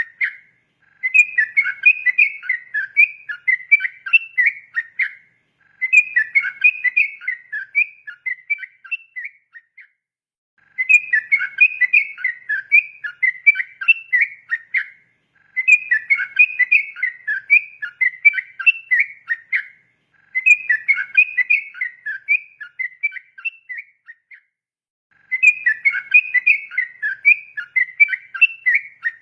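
Yellow-vented bulbul (trucukan) singing a rapid, run-on song of chattering whistled notes. It comes in phrases about four seconds long, separated by pauses of about a second, six in all.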